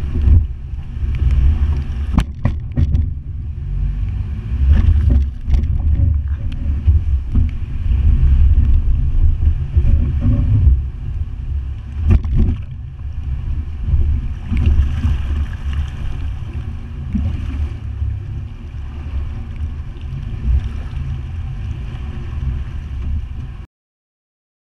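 Toyota FJ Cruiser's 4.0-litre V6 pushing the truck through river water, a heavy low rumble mixed with water rushing and splashing, with a few sharp knocks. The sound cuts off suddenly near the end.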